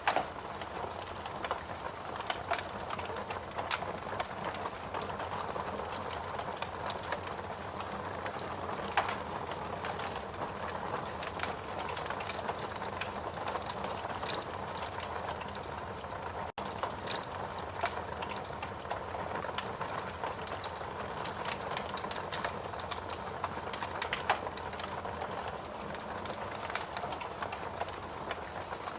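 Log fire burning in a fireplace: a steady rush of flames with frequent small crackles and pops throughout, and a split-second dropout a little past the middle.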